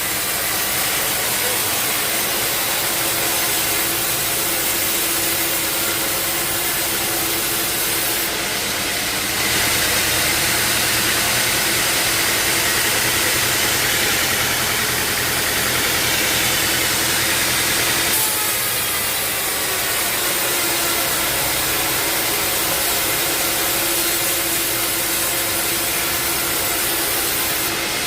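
Sawmill machinery running: a steady engine hum with the noise of a saw cutting wood. The sound changes in character a few times, about 8, 9.5 and 18 seconds in.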